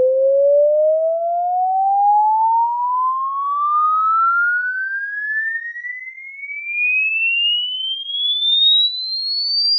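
Sine-wave frequency sweep played through a defective Teufel passive loudspeaker: a single tone rising steadily from about 500 Hz to about 5 kHz, its loudness wavering up and down, with faint higher tones riding above it.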